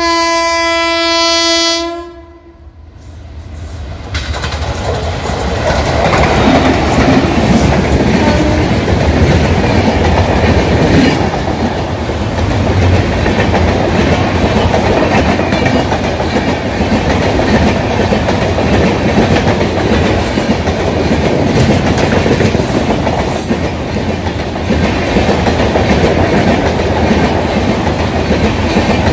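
Indian Railways locomotive horn sounding once for about two seconds, then a passenger train running over a rail bridge. The coaches make a steady loud rumble with rhythmic clickety-clack from the wheels over the rail joints.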